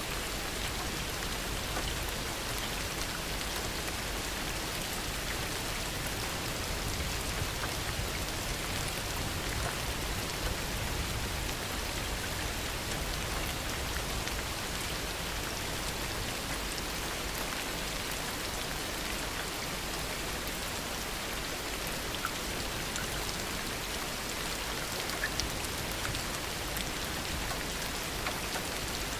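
Heavy rain falling steadily, with individual drops ticking on a surface and a few slightly louder drop hits near the end.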